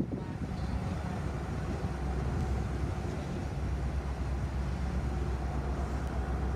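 Freight train moving through a rail yard: a steady low rumble that swells a little about two seconds in.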